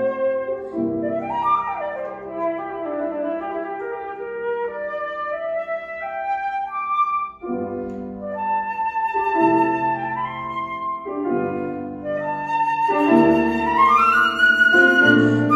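Flute and grand piano playing classical music: the flute carries the melody over piano chords, and near the end the flute line climbs step by step.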